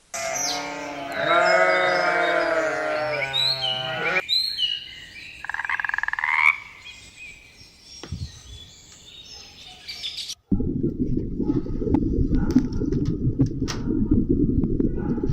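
Animal calls in three distinct parts: a loud wavering pitched call for about four seconds, then shorter gliding calls, then from about ten seconds in a dense low rasping chorus with scattered clicks.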